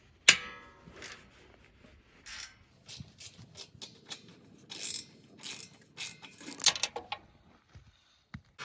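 A sharp metallic clang with ringing, then a hand ratchet clicking in several short runs as engine-mount bolts are worked.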